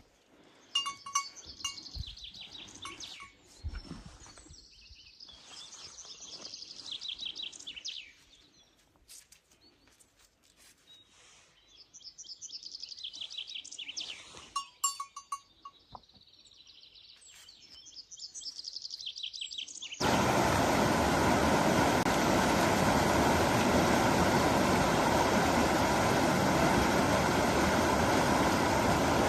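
Birds chirping in short rapid trills, with scattered clicks and knocks. About twenty seconds in, a loud steady rushing noise cuts in abruptly and continues.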